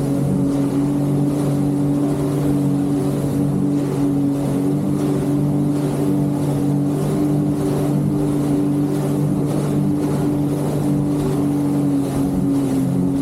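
Jet ski engine running at a steady cruising speed. It holds one constant pitch, easing down slightly near the end, over the rush of water.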